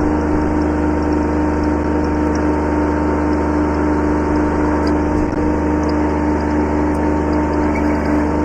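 Kubota B7100 subcompact tractor's three-cylinder diesel engine running at a steady speed.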